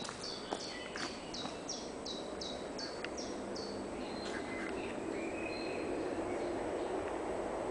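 A songbird repeating short, high falling notes about three times a second, the series stopping about three and a half seconds in. Under it come a few faint taps like footsteps and a rushing noise that grows louder in the second half.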